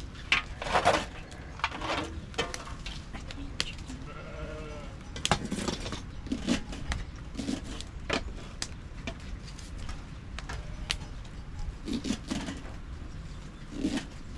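A flock animal bleating once, a wavering call about four seconds in, among scattered sharp clicks and knocks.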